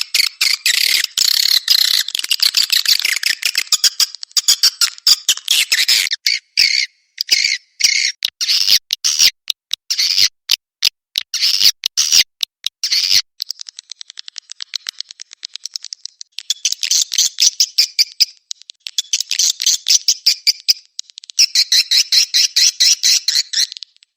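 Swiftlet calls: rapid, buzzy trains of clicking chirps in bursts of one to two seconds with short gaps between, the kind of swiftlet call recording played to draw swiftlets into a nesting house.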